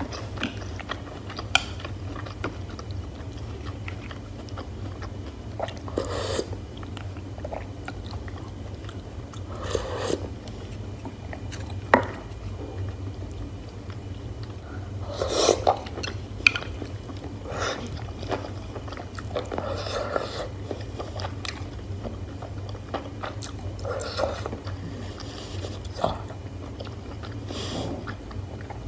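Close-miked chewing and biting of hotpot beef and mushrooms, with scattered sharp clicks and short bursts every few seconds over a steady low hum.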